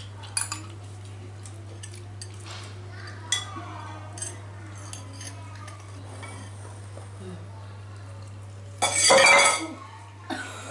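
Eating utensils clinking and scraping against plates and bowls in scattered light clicks over a steady low hum, with one loud, noisy burst about nine seconds in.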